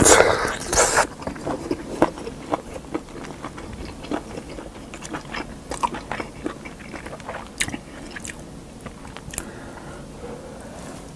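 A person eating close to the microphone: a loud bite into braised meat on the bone in the first second, then chewing of kimchi stew with scattered mouth clicks and smacks.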